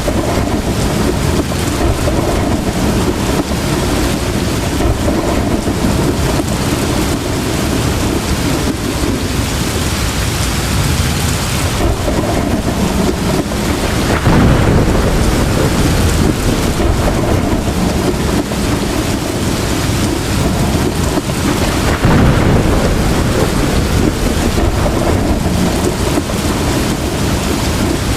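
Heavy tropical rain pouring steadily, with low rolling thunder underneath that swells about halfway through and again near three quarters of the way.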